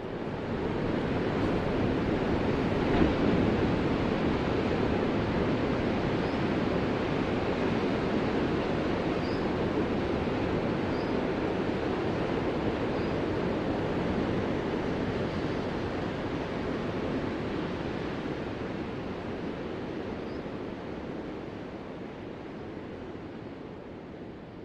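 Ocean surf: a rushing wash of breaking waves that swells to its loudest about three seconds in, then slowly dies away.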